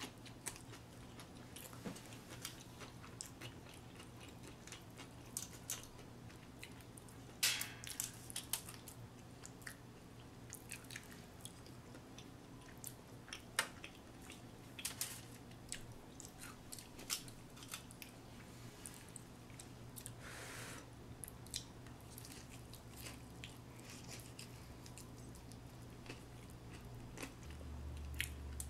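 A person biting into and chewing a crispy fried chicken sandwich: scattered crunches and clicks, the loudest about seven and a half seconds in.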